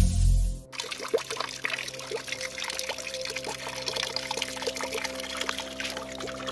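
Water pouring and trickling down a waterfall fountain made from an oak trunk, with many small splashes and drips. Loud music cuts off under a second in.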